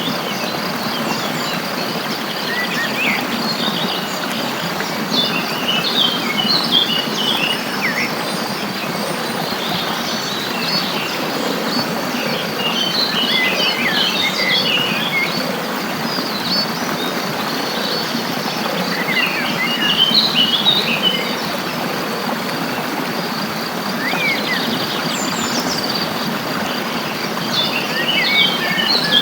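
Small birds chirping and twittering in short bouts every few seconds, over a steady rushing background noise and a steady high insect-like buzz.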